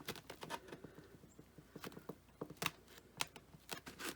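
Faint, scattered light taps and small rustles at irregular intervals from hands handling and pressing foam-board pieces together.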